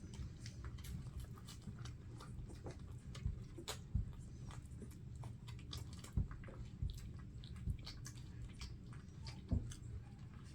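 Mother collie licking her puppies clean: irregular wet licking and smacking clicks over a low steady background hum.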